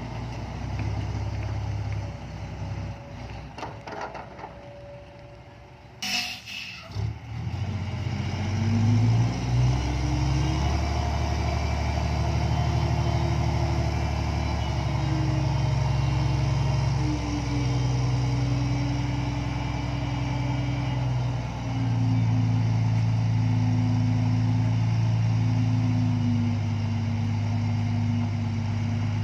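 Isuzu 360 truck's diesel engine starting about six seconds in, then running through its exhaust, the pitch rising as it picks up and then holding steady with a few small dips.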